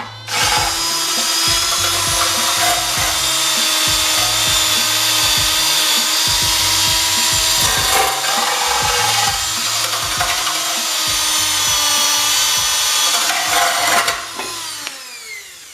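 Small handheld power tool with an abrasive attachment running against the Kohler K181 engine's cylinder block, cleaning the old head gasket off the deck surface. It runs steadily with a scrubbing sound, then is let off and spins down with a falling whine near the end.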